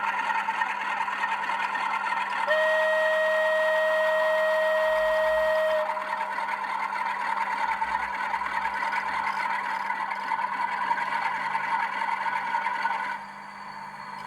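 A model Class 47 locomotive's sound decoder playing diesel engine sound through its small speaker as the model moves forward, with one steady horn blast of about three seconds starting a couple of seconds in. The engine sound drops away near the end.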